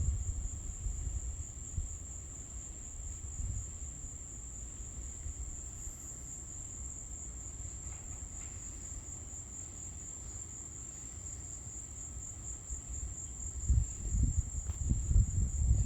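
A steady, continuous high-pitched chorus of night insects such as crickets. Under it is a low rumble that is louder at the start and swells again near the end.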